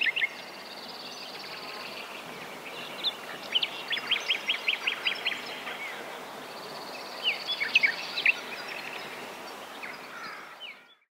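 Small birds chirping and trilling in quick runs over a steady outdoor hiss, fading out near the end.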